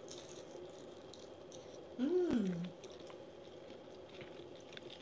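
Someone chewing crisp deep-fried prawn tempura, faint crunches scattered through, with a short appreciative "mm" hum about two seconds in that rises and then falls in pitch.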